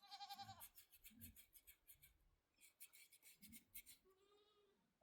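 A hairbrush being stroked quickly over a horse's coat: two runs of fast, scratchy brush strokes. A short, high, wavering call sounds right at the start, and a faint pitched sound comes near the end.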